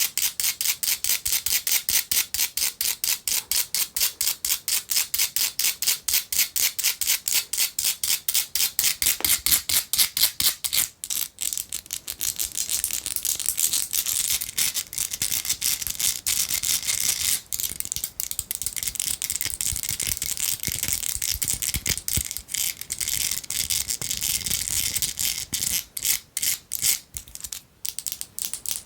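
Fast, even tapping of long fingernails on a perfume bottle, about seven taps a second, giving way about eleven seconds in to a denser, less regular mix of scratching and tapping on the bottle.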